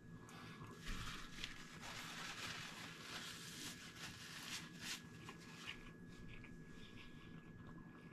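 Faint chewing of a mouthful of burger with small wet clicks, and a paper napkin rustling against the mouth partway through.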